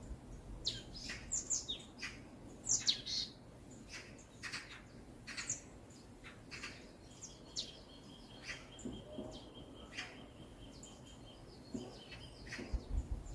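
Wild birds chirping and calling in a forest, many short sharp chirps, with a thin steady high note running through the second half.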